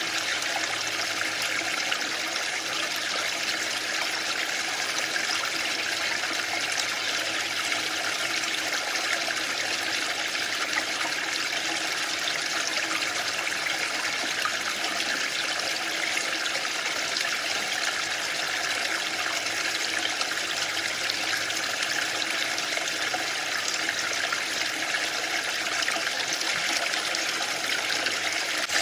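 Waterfall: water falling steadily, an even rushing hiss that never pauses or swells.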